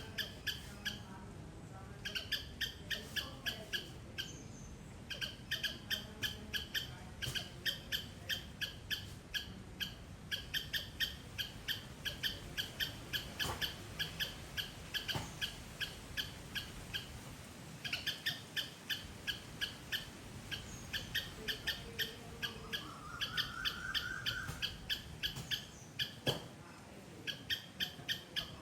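Squirrel giving loud, repeated sharp chirping calls, about three a second, in long runs with short pauses.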